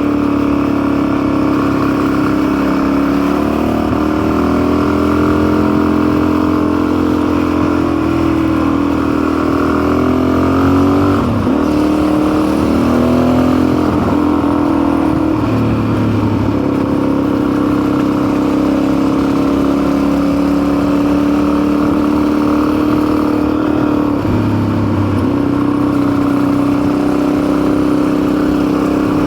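Motorcycle engine running while the bike is ridden. The engine note holds steady, then dips and rises again a few times as the throttle is eased and reopened.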